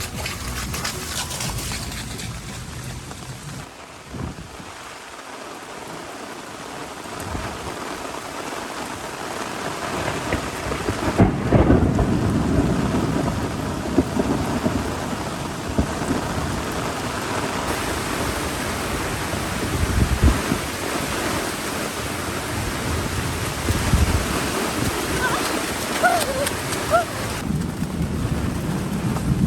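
Heavy rain falling steadily, with several low rumbles of thunder, the loudest about twelve seconds in.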